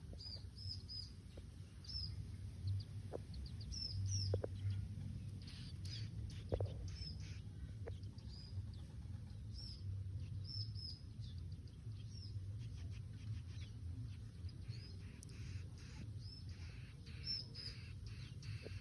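Ciblek gunung (mountain prinia) calling with short, high, hooked chirps repeated again and again, over a low steady rumble.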